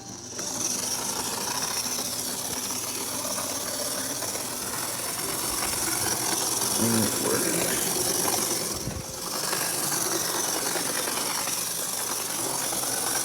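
A 1982 HO scale model locomotive, probably with a pancake motor, running on steel sectional track: a loud, steady hissing buzz with a mechanical rattle. It comes on abruptly at the start and dips briefly about nine seconds in.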